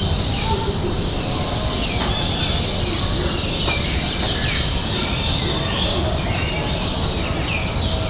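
Birds chirping: many short, quick calls, several sliding downward in pitch, over a steady low rumble.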